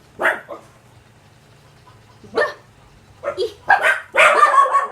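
A dog barking: a single bark at the start, another about halfway, then a quick run of barks near the end.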